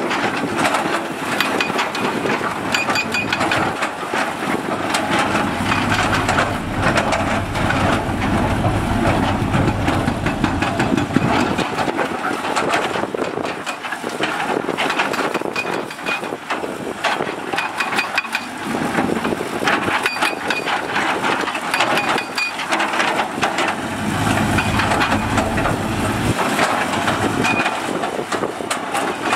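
Heavy diesel construction machinery running and working. Its engine note gets heavier twice, for several seconds each time, and short metallic knocks and clanks sound throughout.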